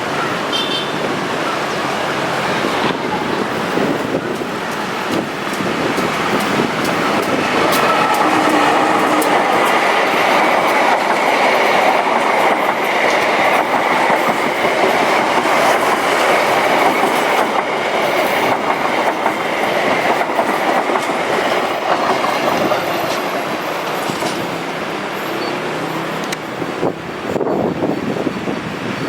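A train passing close by, its wheels clicking over the rail joints. It grows louder for about the first third, runs loud through the middle with a faint steady whine, then eases off near the end.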